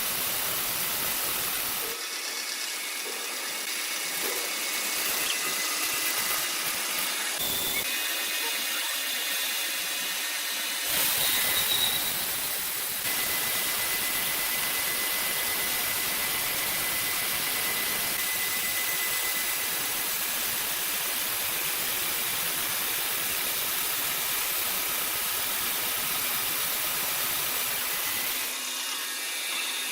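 Machinery running with a steady hissing noise, with a faint high whine through the middle. The sound shifts abruptly several times.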